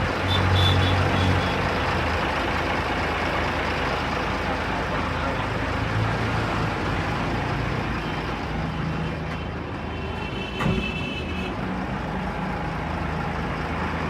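Mercedes-Benz 1317 tipper's turbocharged straight-six diesel running steadily at idle, with a short knock about ten and a half seconds in.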